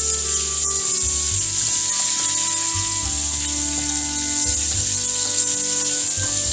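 Small battered fish sizzling in hot oil in a frying pan as they are turned with a fork, a steady hiss, over background music.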